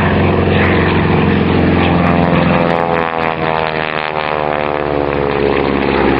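Spartan 7W Executive's Pratt & Whitney R-985 Wasp Junior nine-cylinder radial engine, a propeller aircraft in flight with a rasping note. The engine's pitch shifts midway through.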